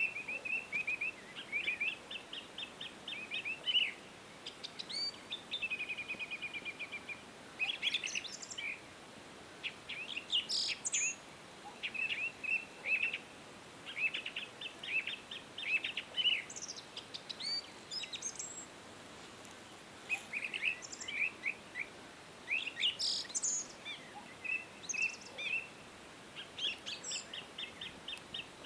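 Songbirds singing and chirping, in quick runs of short high notes broken by brief pauses, over a faint steady hiss.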